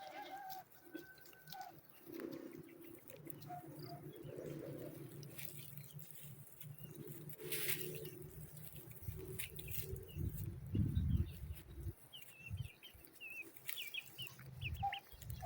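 Chickens clucking, with chicks peeping in quick high chirps near the end. A low rumbling noise runs underneath, loudest about eleven seconds in.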